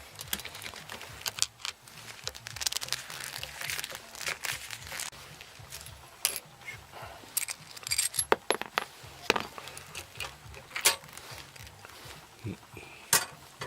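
An electric fan being taken apart by hand: scattered, irregular clicks and knocks of hard parts being handled and removed.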